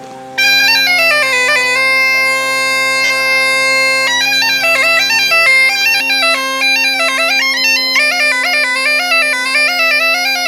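Bagpipe playing a quick melody that steps up and down over steady drones. The chanter comes in loudly about half a second in, over a drone that was already sounding.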